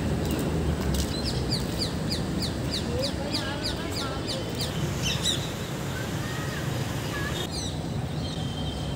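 Birds chirping: a quick run of short, high, falling chirps, about four a second, then more scattered calls, over a steady murmur of distant voices.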